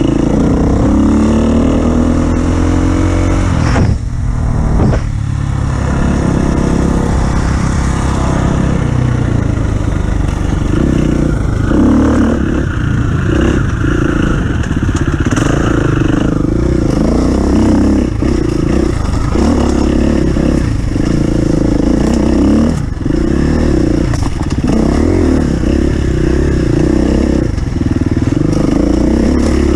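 An off-road vehicle's engine running hard, its revs climbing over the first few seconds, dipping about four seconds in, then rising and falling repeatedly, with continuous clattering and rattling from rough ground.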